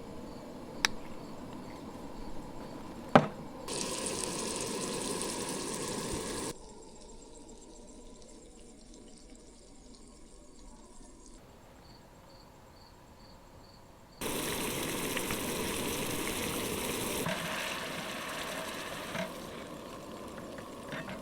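Burgers sizzling in an oiled pan on a camp stove: an even hissing crackle that starts and stops abruptly twice, with a sharp clack about three seconds in. Between the two stretches of sizzling, insects chirp faintly in an even rhythm.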